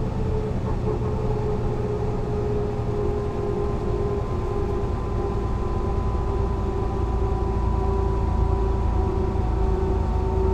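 Mercedes-Benz O 405 NÜ low-floor bus running, a steady low rumble with a constant whine; the rumble grows louder near the end.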